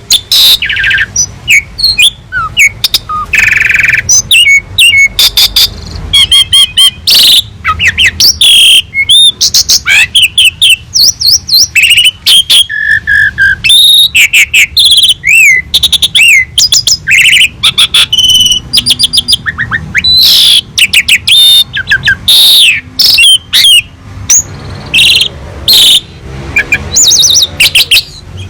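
Jalak suren (pied starling) singing continuously and loudly: a rapid, varied stream of whistles, rising and falling notes, trills and buzzy rattles with hardly a pause, the full song with mimicked phrases.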